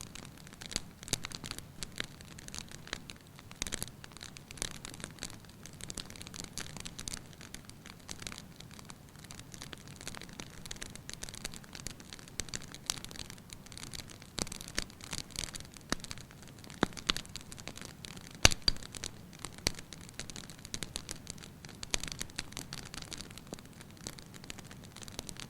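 Wood fire crackling in a fireplace, with frequent small, irregular snaps and pops over a soft hiss, and one sharper pop about two-thirds of the way through.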